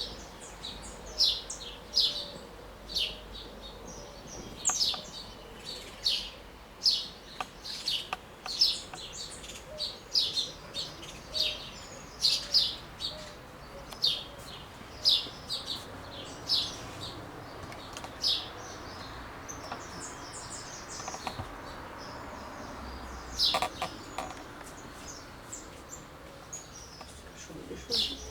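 Small birds chirping: short, high, falling chirps repeated about once a second, over a faint steady background hiss.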